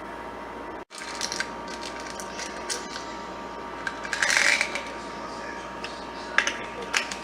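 Scattered clicks and clattering of small hard objects being handled, with a louder rustling burst midway and two sharp clicks near the end.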